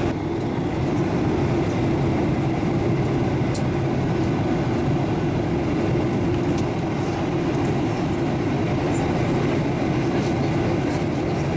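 Steady cabin noise of a Boeing 737-900ER airliner: a constant low rumble of engine and airflow with a faint steady hum.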